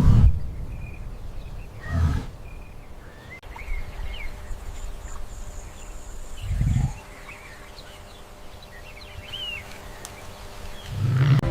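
Deep, low animal calls, four of them a few seconds apart, with faint bird chirps in between.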